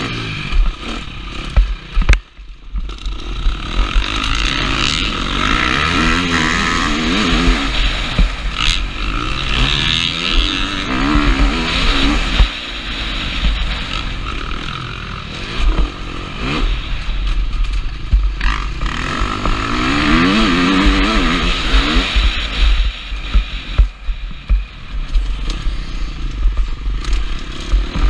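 KTM 350 SX-F four-stroke single-cylinder motocross engine on the throttle, its pitch rising and falling again and again as the rider accelerates and backs off, with a brief lift of the throttle a little over two seconds in. Heavy wind rumble on the helmet-mounted camera's microphone runs under it.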